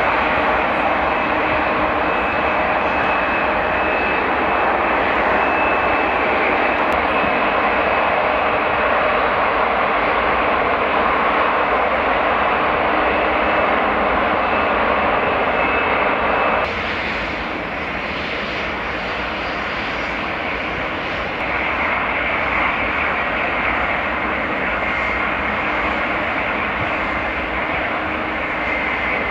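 Airliner engines running steadily: a dense, loud engine noise with steady high whining tones. About two-thirds of the way in, the sound drops suddenly and changes character.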